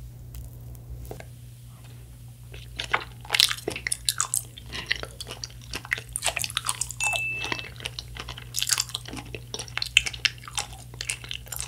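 Close-up mouth sounds of biting into and chewing a soft melon-soda konjac jelly: many short, sharp clicks in quick succession, sparse for the first two seconds or so, then dense.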